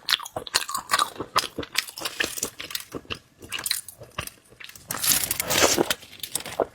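Close-miked ASMR eating: wet biting and chewing mouth sounds with many sharp crisp clicks, growing into a denser crunchy stretch about five seconds in.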